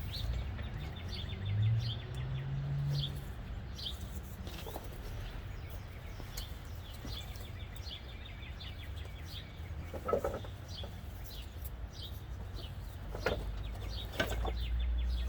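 Birds chirping over and over in short, quick downward notes, with a few knocks about ten and thirteen seconds in.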